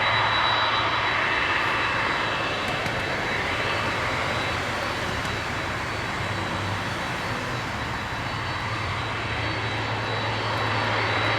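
Boeing 767-300ER jet airliner's engines running steadily, a wide rushing noise with a thin high tone and a low hum; the level eases slightly in the middle and builds again near the end.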